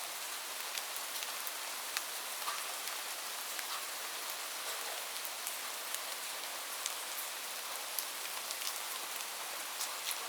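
Steady rain with a dense hiss, and the clicks of individual drops striking a surface scattered throughout.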